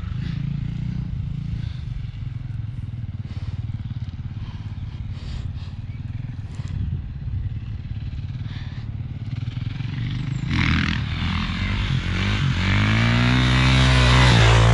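Kawasaki KX450 dirt bike's single-cylinder four-stroke engine running quietly, then growing much louder about ten seconds in as it revs, its pitch rising and falling, loudest just before the end.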